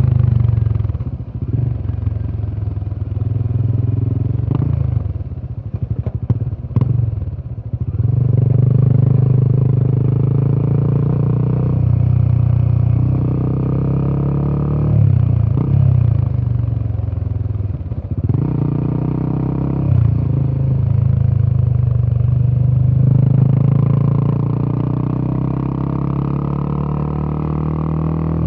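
Royal Enfield Himalayan 450's single-cylinder 450cc Sherpa engine pulling the bike along, its deep exhaust note rising and falling with throttle and gear changes. It eases off for a few seconds near the start, with a few sharp clicks, then picks up again.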